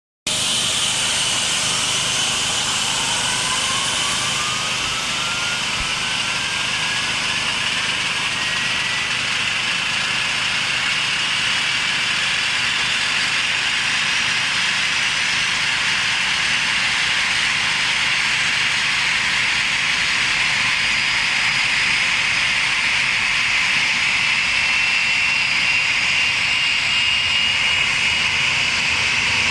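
Airbus airliner's turbofan jet engine running on the ground, a steady loud rush with whining tones that climb in pitch over the first several seconds and then hold. This is a test ground run of a newly installed engine.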